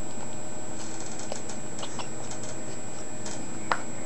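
Irregular light clicks and ticks of a cockatiel chick feeding from a hand-feeding syringe, with one sharper click near the end.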